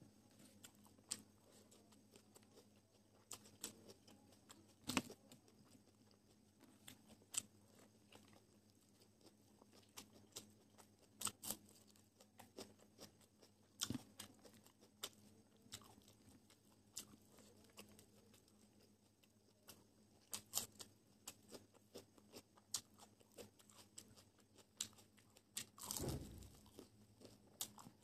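Close-miked chewing and biting of dry-fried chicken drumsticks: irregular wet mouth clicks and small crunches, with one longer, louder noise near the end.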